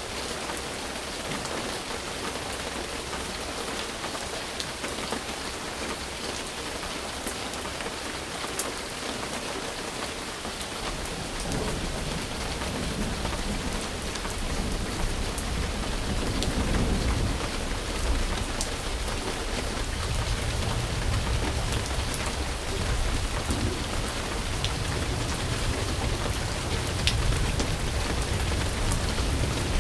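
Steady rain falling, with a low rumble of thunder that starts about a third of the way in and grows louder past the middle.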